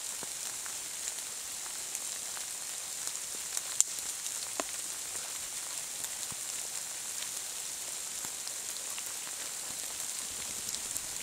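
Steady hiss of light rain falling on the forest foliage, with scattered small drip ticks and a couple of sharper ones about four seconds in.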